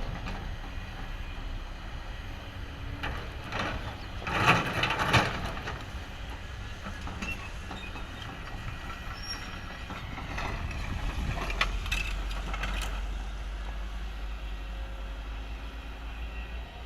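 Kobelco excavator at work in rock: a steady engine drone under clanks and scraping of the bucket. Two loud knocks come about four and five seconds in and a cluster of knocks between ten and thirteen seconds, as the low engine drone grows stronger about eleven seconds in.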